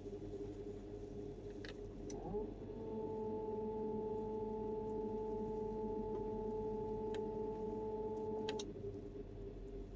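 2004 Volkswagen Touareg 4.2 V8 running with a steady low hum. About two seconds in, a click, then a steady whine rises in quickly. The whine holds for about six seconds and cuts off with another click.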